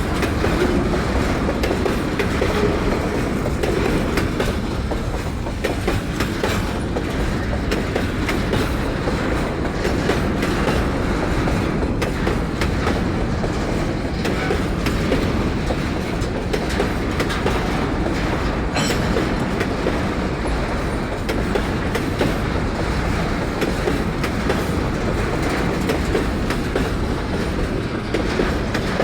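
Empty freight wagons of a long train rolling past: a steady rumble of steel wheels on rail with clickety-clack over the joints.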